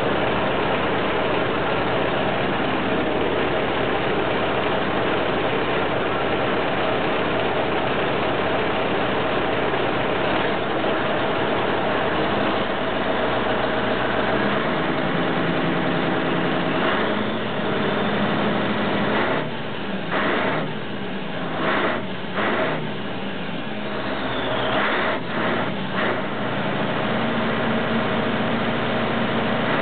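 Scania T143 470's V8 diesel running through a straight exhaust, steady at first. In the second half it gives several short bursts of revs, with the sound dropping back between them.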